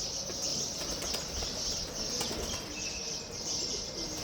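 Steady high-pitched drone of an insect chorus, with a few short bird chirps over it.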